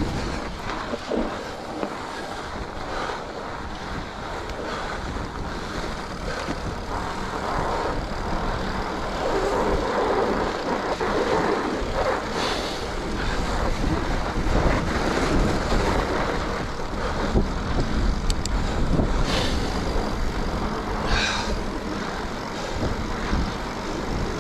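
Wind rushing over the microphone and the rolling noise of a mountain bike's wide, low-pressure tyres on packed, groomed snow, with a few brief clatters from the bike.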